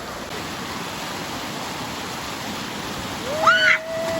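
Steady rush of stream water pouring down the granite face of a natural rock water slide, with a loud human yell or scream rising over it about three seconds in and held for about a second.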